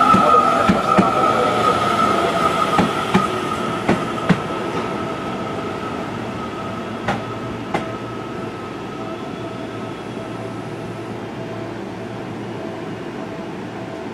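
Seibu 30000 series electric train arriving and braking to a stop. A steady whine fades as it slows, and the wheel clacks over the rail joints space out and stop after about eight seconds.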